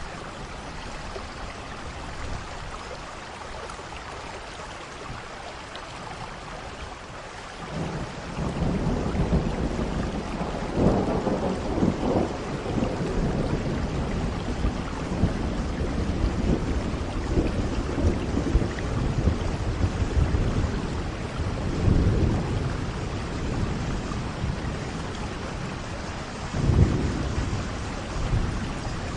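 Steady rain with rolling thunder. About eight seconds in, a deep rumble of thunder begins and keeps rolling under the rain, swelling several times, loudest near the end.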